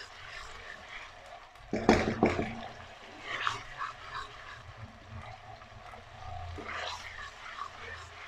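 Ginger-garlic paste frying gently in oil in an aluminium karahi, stirred with a wooden spoon that scrapes and clicks against the pan. A short, louder call breaks in about two seconds in.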